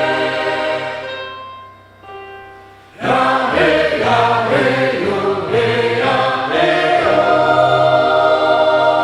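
Choir singing: a held chord dies away over about three seconds, then the voices come back in loudly with moving notes before settling on another sustained chord.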